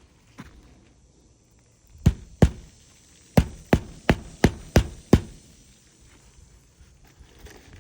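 Hammer blows on a shingle roof: two strikes, a short pause, then six evenly spaced strikes at about three a second, like a nail being driven home.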